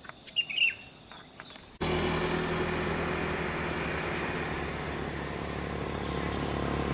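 A short bird call over a steady pulsing chorus of insects. After about two seconds a vehicle engine abruptly cuts in, running at a steady pitch and growing louder toward the end.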